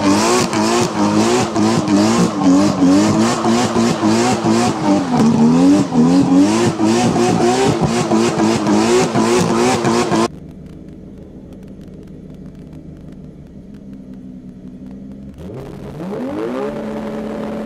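Tuned car engine revving up and down hard, with many sharp crackles over the exhaust note. After about ten seconds it cuts abruptly to a much quieter engine running steadily, which then revs up in a rising sweep near the end.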